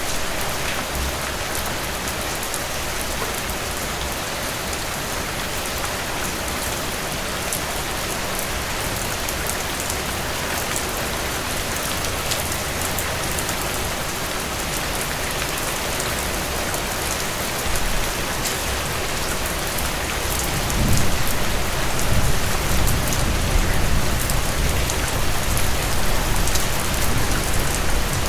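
Heavy rain pouring down in a dense, steady downpour. About three-quarters of the way through, a low rumble of thunder builds and rolls on under the rain.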